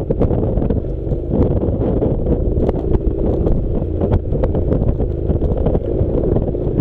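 Wind buffeting the microphone over the steady running of a Honda NC700's parallel-twin engine while riding, with scattered short knocks throughout.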